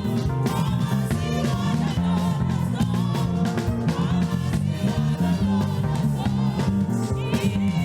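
Live gospel praise music: a band with a strong bass line and drums under singing voices.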